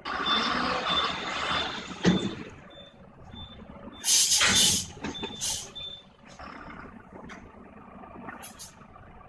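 Heavy truck's reversing alarm beeping about twice a second, with a sharp knock about two seconds in and two loud hisses of air-brake air a little after the middle.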